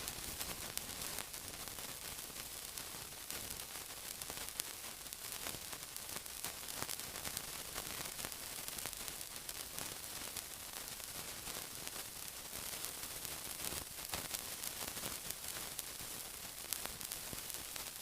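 Continuous sizzling: a steady hiss thick with fine, rapid crackles and pops.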